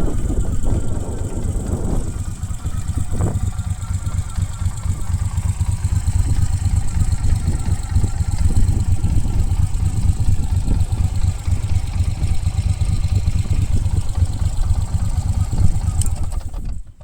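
Moto Guzzi California Classic's air-cooled transverse V-twin engine idling steadily after start-up.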